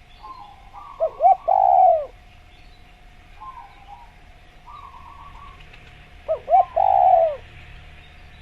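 Spotted dove (tekukur) cooing twice, each phrase two short notes and then a longer, falling coo. Fainter call notes come in between, over a steady faint tone.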